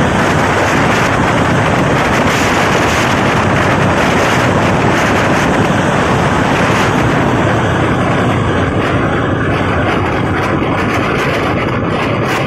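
Wind rushing over the microphone with the running noise of a passenger train at speed, recorded from beside the coach. The hiss eases a little in the last few seconds.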